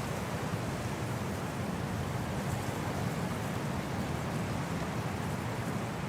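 Winter wind blowing steadily, an even rushing with a low rumble and no distinct gusts.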